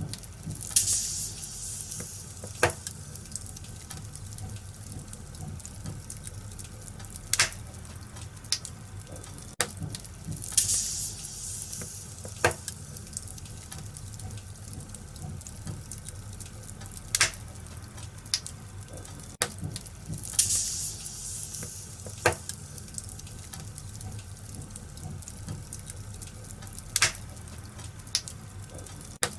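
Wood fire in a fireplace crackling, with sharp pops every few seconds and short spells of high hissing about every ten seconds.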